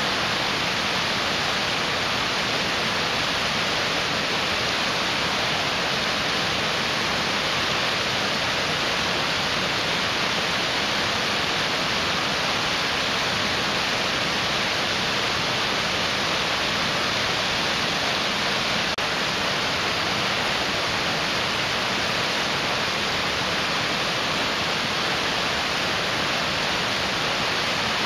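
Mountain stream rushing over rocks: a steady, unbroken hiss of water.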